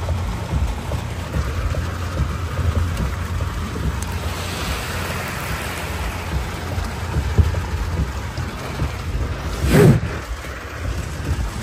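Heavy rain drumming on a car's roof and windshield, heard from inside the car as a steady, dense rush with a deep low rumble. A short, loud knock comes just before ten seconds in.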